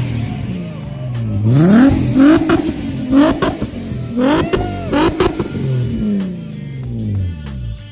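A car engine being revved in repeated blips, its pitch climbing and falling about four times, with a few sharp cracks near the top of some revs.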